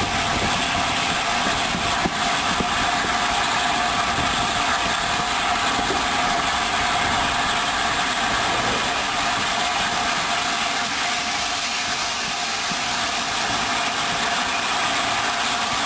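Steady running noise of a steam-hauled passenger train in motion, an even rush of sound with no distinct beats.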